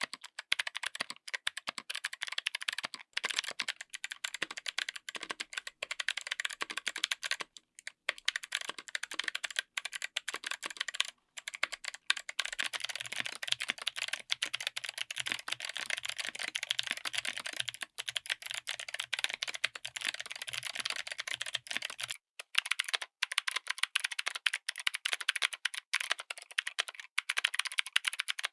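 Fast, continuous typing on a mechanical keyboard fitted with clicky switches, each keystroke a sharp click. After a brief break about 22 seconds in, the typing resumes with a thinner sound.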